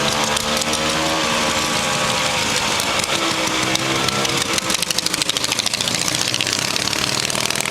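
Ural motorcycle's flat-twin engine running at idle, with an uneven pulsing patch for about a second around the middle.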